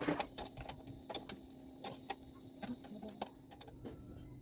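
Scattered light clicks and taps of tools and metal parts being handled, at an uneven pace, over a faint steady hum that stops about three seconds in.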